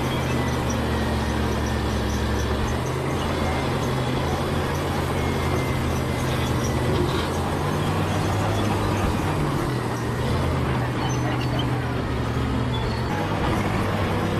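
Bulldozer's diesel engine running under load, its low note shifting up and down a few times as the load changes, over a steady mechanical din.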